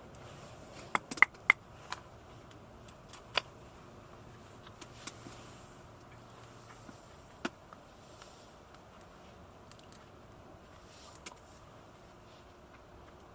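Camping gear being handled: a few sharp clicks and clinks, three close together about a second in and single ones later, over a faint steady background.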